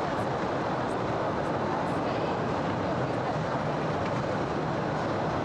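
Steady running noise of a small open-car cave train moving along its track.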